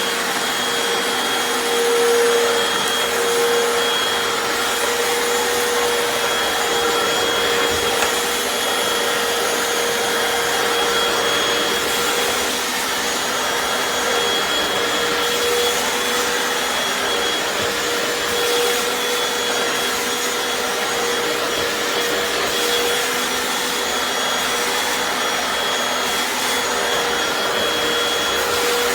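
Hoover FloorMate FH40160 hard-floor wet cleaner running in wash mode, its suction motor whining steadily with a high tone, as it is pushed across a tile floor.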